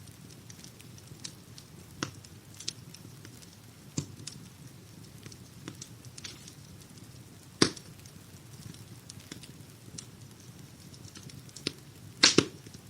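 Wood-burning fire crackling over a soft, steady low hiss, with scattered sharp pops. One loud pop comes a little past the middle, and a quick run of two or three loud pops comes near the end.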